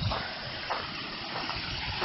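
Water from a small waterfall rushing steadily.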